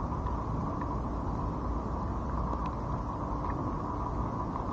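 Steady thunderstorm rain and wind rushing over the camera's microphone, with a few faint ticks of drops.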